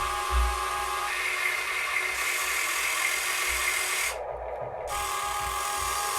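Small electric motors and gearing of radio-controlled construction models running with a steady multi-pitched whine, with low knocks underneath. A higher whine joins about a second in, and the upper part of the sound cuts out briefly a little after four seconds.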